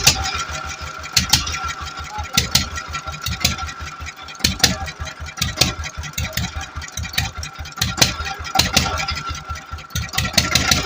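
Petter-type single-cylinder stationary diesel engine running, with a steady low chugging and sharp knocks about once a second over a steady whine.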